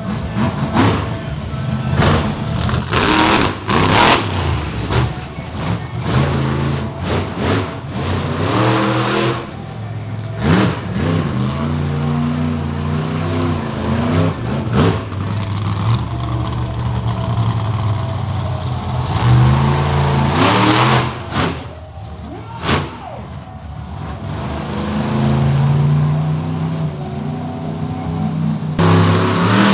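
Monster truck engine revving hard and dropping back again and again, its pitch rising and falling, with a few loud thumps along the way.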